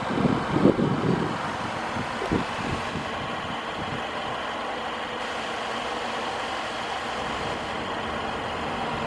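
Steady background vehicle noise, with a few soft low thumps in the first second or so.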